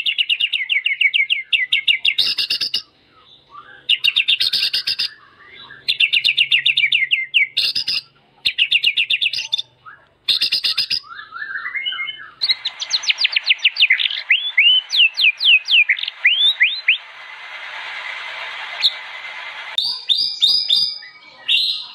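White-rumped shama (murai batu) singing vigorously: short phrases of rapid, repeated notes with brief pauses between them, then, about halfway through, a longer run of quick downward-sweeping whistles with a hiss behind it.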